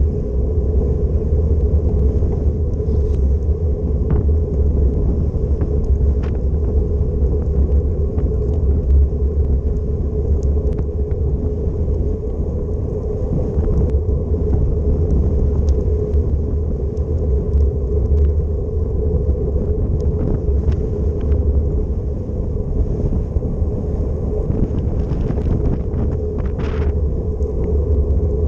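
Wind buffeting the microphone of a camera on a moving bicycle, a steady low rumble, with road noise, a steady hum under it and scattered small clicks.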